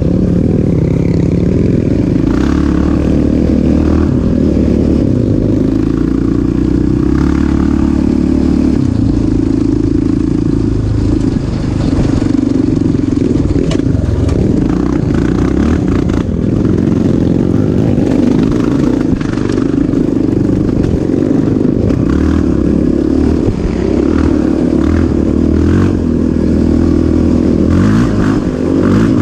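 Off-road engine running hard, its pitch rising and falling as the throttle is opened and eased off, with brief drops around 11 and 16 seconds in.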